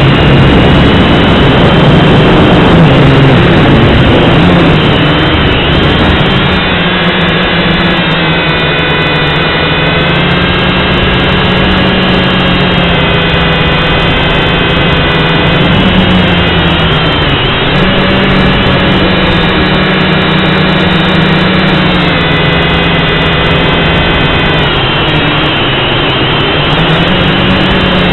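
Syma X5C quadcopter's small electric motors and propellers whining loudly and steadily, the pitch dropping and climbing several times as the throttle changes.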